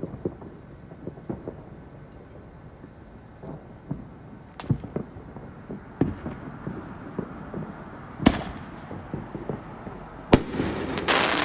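Fireworks going off: a scattering of bangs of varied size, the two loudest about eight and ten seconds in, followed by a dense crackle near the end.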